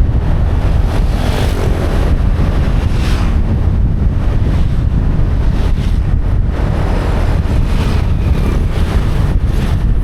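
Wind rushing over the microphone on a moving motorbike: a loud, steady low rumble, with the motorbike's engine running underneath.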